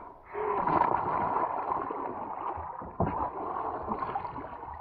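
Water splashing and churning around a sea kayak during rolling practice, starting a moment in and surging again about three seconds in.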